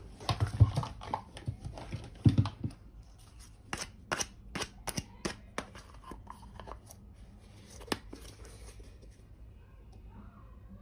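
Small plastic toy pieces and packaging being handled: a cluster of knocks and rustles in the first few seconds, then a run of sharp clicks and taps.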